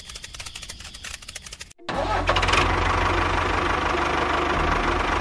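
Engine starting: a rapid run of clicks like cranking, a brief break, then the engine catches about two seconds in and runs steadily and loudly with a deep hum.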